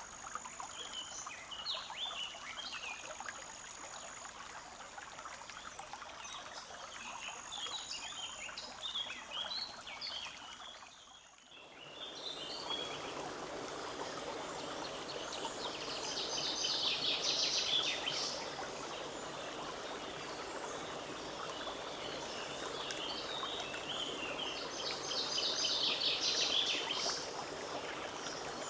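Forest stream running steadily with birds singing over it: short chirping phrases and a high thin whistle in the first part. After a brief dip about halfway through, the water is louder, and two fast, bright bird trills come, the second near the end.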